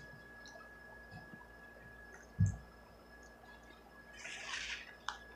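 Faint mouth sounds of someone chewing fried chicken, with a dull thump about two and a half seconds in and a louder mouth noise near the end.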